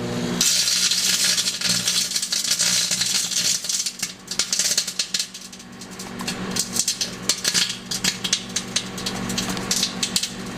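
Microwave oven running with a steady hum while a CD inside arcs. The disc's metal layer sparks with dense crackling that starts about half a second in, eases off briefly around the middle and then crackles again.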